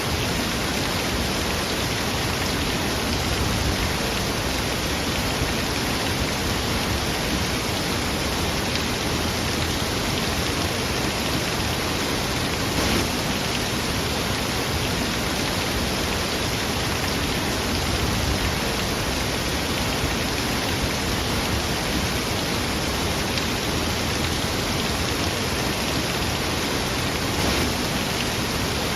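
Falling water making a steady, even noise with no breaks or changes.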